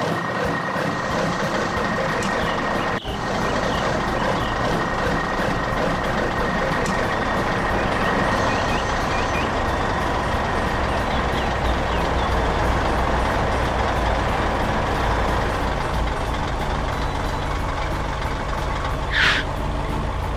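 Heavy truck engine running steadily with a deep rumble that grows stronger in the second half, and a short high-pitched sound about a second before the end.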